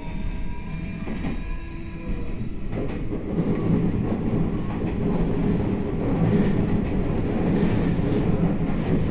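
Meitetsu 9500 series electric train running, heard from inside the car: a faint motor whine drifting slightly down in pitch at first, then a louder steady rumble of wheels on rails from about three seconds in.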